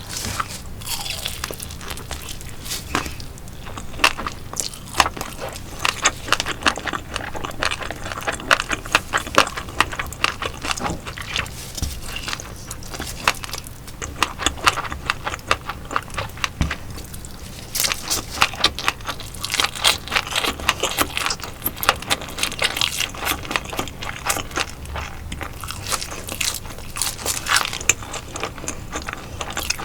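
Close-miked eating: crunching and chewing of fried and grilled sailfin sandfish and sand eel, a dense run of sharp crackles and crunches that comes in bursts.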